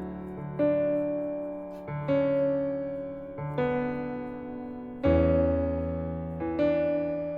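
Slow, gentle piano background music: a chord is struck about every second and a half and left to ring and fade.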